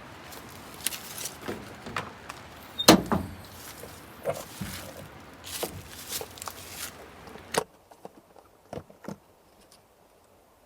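Irregular knocks and clicks of things being handled, with one loud thunk about three seconds in. The steady background hiss cuts off suddenly past the halfway point, leaving a few faint taps.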